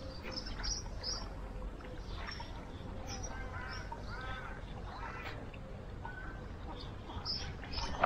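Birds calling: short high chirps recur throughout, and a few arched, quack-like calls come about halfway through, over a low steady outdoor rumble.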